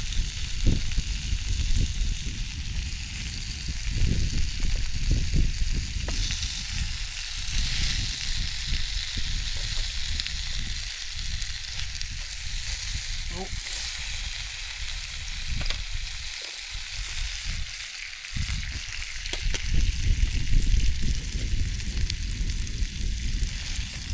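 Pork ribs sizzling in hot oil in a non-stick Trangia frying pan, a steady frying hiss. Uneven low rumbles of wind buffet the microphone throughout.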